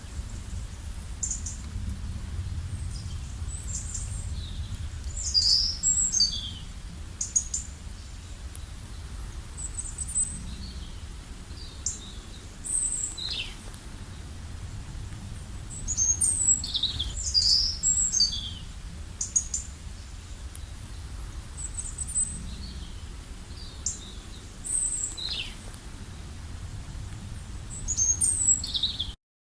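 Small birds chirping outdoors: short high-pitched chirps and quick downward-sweeping calls, some in quick clusters, over a steady low rumble.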